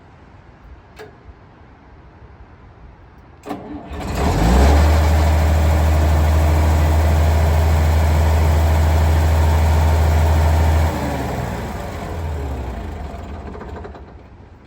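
Tractor engine starting about three and a half seconds in and running loud and steady. About eleven seconds in it drops off suddenly and winds down over the next few seconds.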